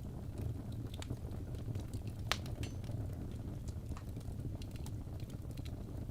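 Wood fire burning in a fireplace: a steady low rumble of the flames with scattered crackles and pops of the logs, the sharpest pop about two seconds in.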